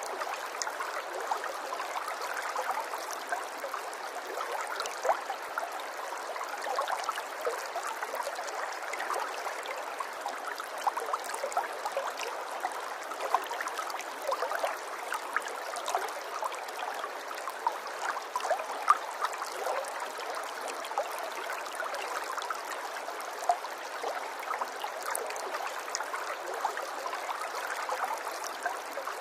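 Running water flowing steadily, full of many small splashes and drips.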